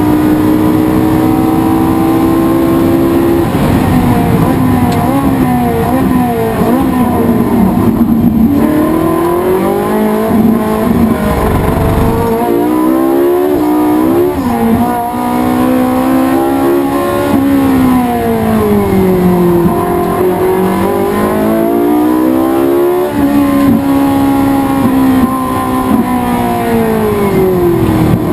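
Race car engine at racing speed, its revs rising and falling through the corners, with sudden steps in pitch at gear changes about three seconds in and again after about twenty-three seconds.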